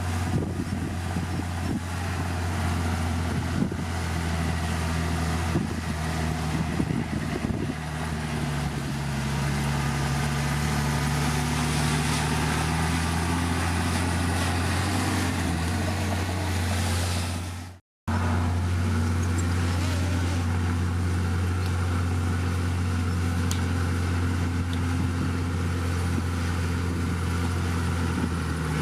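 Heavy diesel engine of earth-moving machinery running steadily, its pitch shifting a little as the load changes. Scattered clanks are heard in the first several seconds, and the sound cuts out for a moment about 18 seconds in before the engine carries on.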